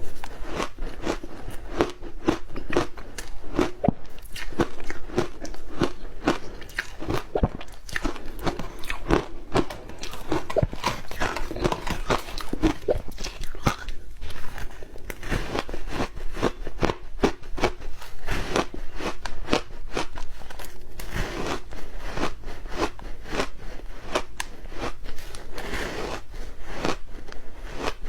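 Close-miked crunching of ice being bitten and chewed, a fast, irregular run of sharp cracks.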